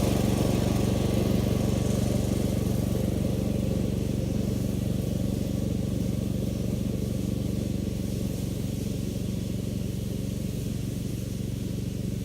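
Engine of a Billy Goat walk-behind brush mower running steadily.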